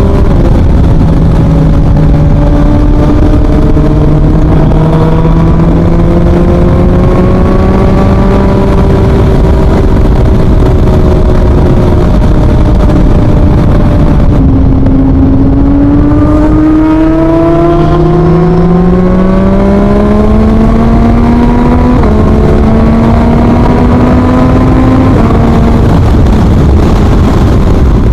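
2023 Yamaha MT-09's 890 cc inline-three through an Akrapovič full exhaust, pulling through the gears: the note climbs steadily in each gear and drops sharply at each upshift. About halfway through it eases off the throttle, then accelerates again with several quicker upshifts, over constant wind rush.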